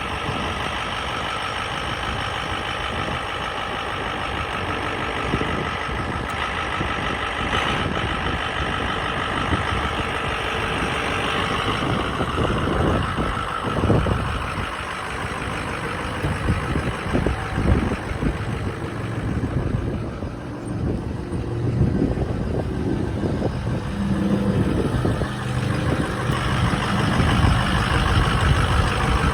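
A Ford F-350 Super Duty's 6.0 L Power Stroke diesel V8 idling steadily. Uneven low rumbles and knocks come in over the second half.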